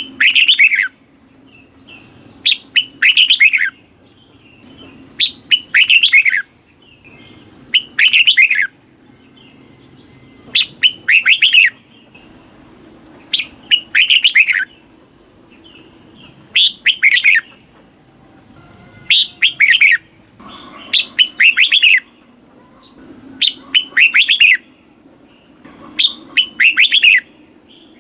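Red-whiskered bulbul singing: loud short song phrases of several quick notes, repeated about every two and a half to three seconds, with faint chirps in the gaps.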